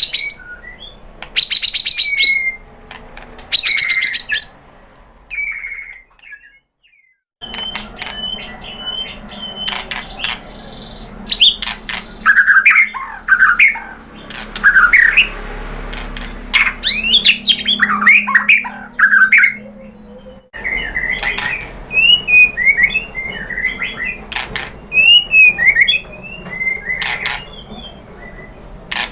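White-rumped shama (murai batu) singing in fast, varied whistles, slurs and rapid trills. The song comes from spliced recordings, broken by a brief silent gap about six seconds in and an abrupt change in recording about two-thirds of the way through.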